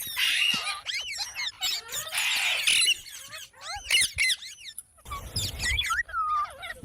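A parrot calling: a quick, busy run of squeaks and squawks that sweep rapidly up and down in pitch, with a harsher screech about two seconds in and a short break near the five-second mark.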